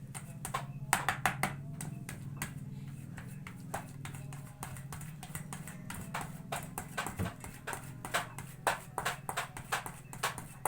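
Boiled egg yolks being mashed in a container: irregular clicking and tapping that comes thicker near the end, over a steady low hum.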